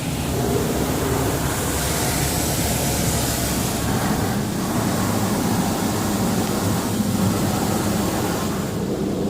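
Touchless car wash spraying water onto a pickup truck, heard from inside the cab: a steady rush of spray on the body and glass over the low hum of the wash machinery, with the hiss growing stronger for a couple of seconds in the middle as the spray passes close.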